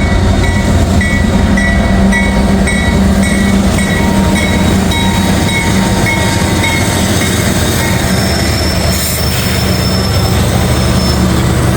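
Freight train rolling past, a loud steady rumble of the cars on the rails. A repeating high ringing tone, two or three times a second, fades away about seven seconds in. A thin high whine holds through the last few seconds.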